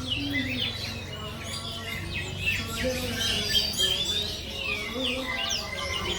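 Many caged songbirds chirping and calling at once, a dense overlapping chorus of quick chirps and whistled glides.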